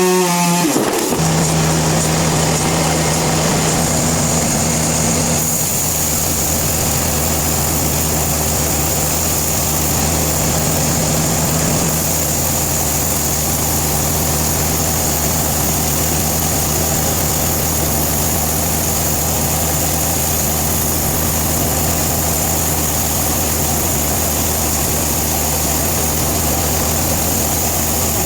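Sawmill machinery running steadily: a low, even engine hum with a steady high whine above it.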